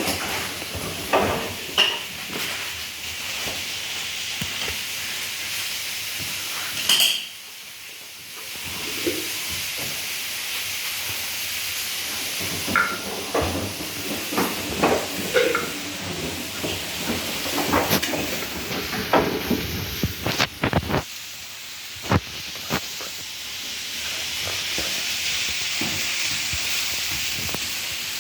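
Whirlpool washing machine running its cycle: a steady rushing hiss of water, broken by scattered knocks and clicks, with a brief drop in level about seven seconds in.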